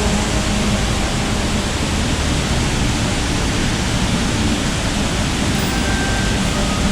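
Sera Ella waterfall pouring close by: a loud, steady rush of falling water that does not change.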